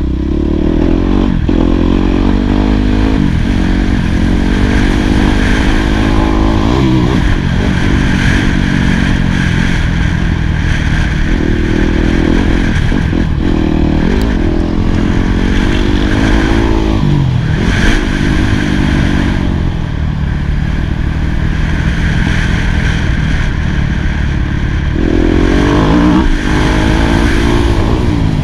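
2018 Yamaha YZ250F's single-cylinder four-stroke engine revving hard and easing off again and again as the bike is ridden round a motocross track, its pitch climbing and then dropping sharply every few seconds on shifts and throttle closes.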